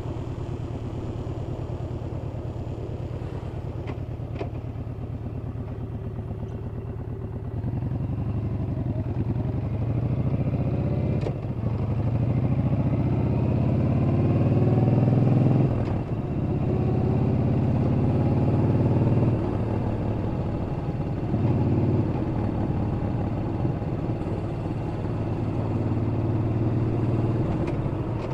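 Yamaha Bolt's air-cooled V-twin engine running on the move. It is steady at first, then about seven seconds in it gets louder and climbs in pitch in pulls, each cut off by a brief dip as the gears are shifted up.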